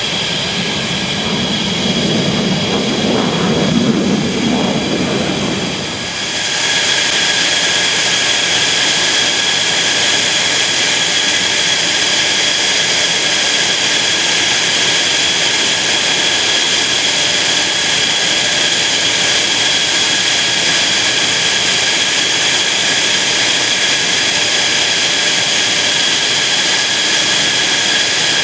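Mitsubishi F-2A fighter's jet engine running with a steady high-pitched whine over a constant rush. For the first few seconds a deeper rumble rises and fades, then the sound changes abruptly to an unchanging whine with no pitch shift, typical of a jet running in place rather than passing by.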